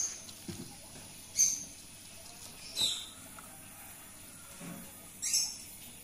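A small bird chirping: four short, high-pitched single chirps spaced a second or more apart.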